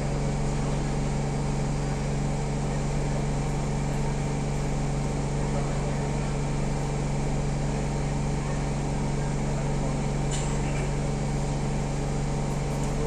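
Siemens C651 metro train standing at a platform with its doors open, its on-board equipment giving a steady low hum; a brief click about ten seconds in.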